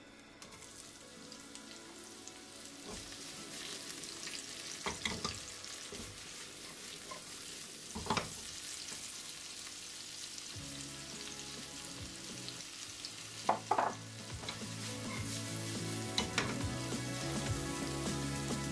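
Sliced red onion and minced garlic sizzling in hot oil in a wok, the frying growing steadily louder. A few sharp taps, as of stirring against the pan, come through the sizzle.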